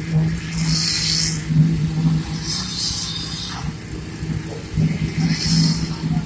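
Diesel engine of heavy road-construction machinery running steadily, with three short bursts of hissing.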